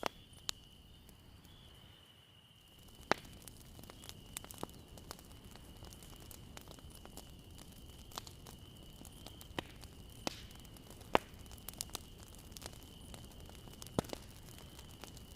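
Bonfire crackling: burning wood gives sharp, irregular pops and snaps over a soft, steady hiss of flame. A faint, steady high-pitched tone runs underneath.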